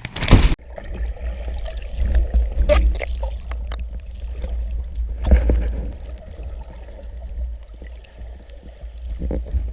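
A jet ski's engine cuts off abruptly about half a second in. What is left is water sloshing and gurgling around the craft over a low rumble, with scattered small splashes.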